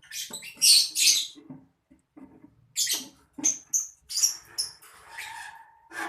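Lovebirds giving short, harsh, high-pitched shrieks in a string of separate bursts, with a few brief chirps a little after the middle.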